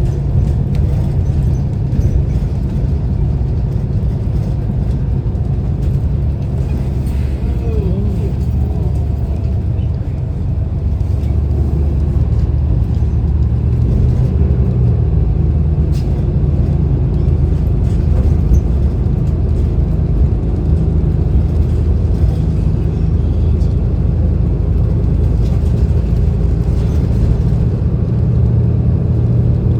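City transit bus heard from inside the cabin while riding: a steady low rumble of engine and road noise, growing a little louder about ten seconds in.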